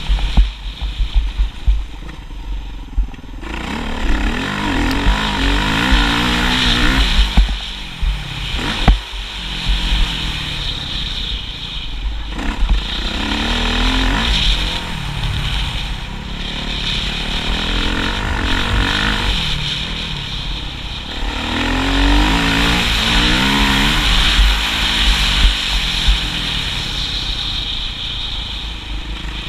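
Motocross motorcycle engine repeatedly revving up and dropping off, its pitch rising and falling, over a heavy low rumble.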